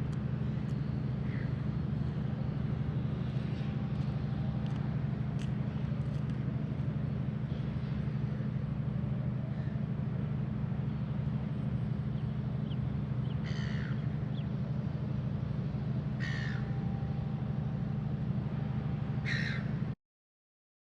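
A steady low hum with three short bird calls in the second half, about three seconds apart. All sound cuts off abruptly shortly before the end.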